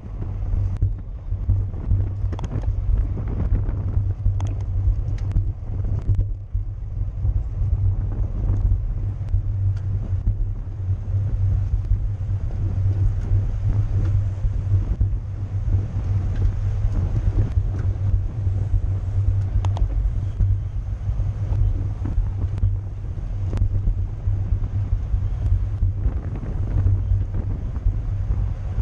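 Wind buffeting a camera microphone moving at bicycle racing speed: a steady low rumble with scattered small clicks and rattles.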